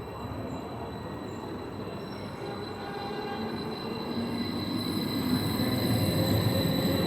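VR high-speed passenger train pulling out of the station, its rolling rumble growing louder over the last few seconds, with a thin steady high whine above it.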